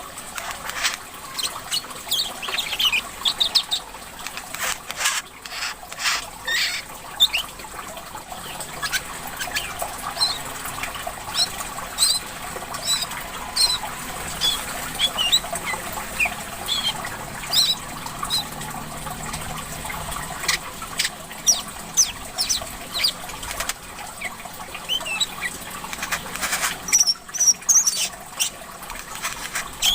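Small songbirds chirping and whistling in many quick, short calls over steadily trickling water.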